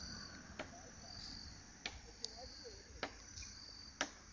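Crickets chirping in a steady pulsing chorus, with sharp pops from a crackling campfire about once a second.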